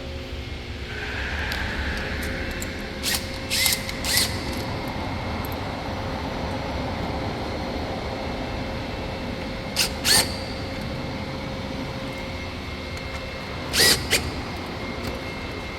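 A steady background hum, with several short, sharp snaps or hiss-like bursts standing out above it, mostly in pairs, about three to four, ten and fourteen seconds in.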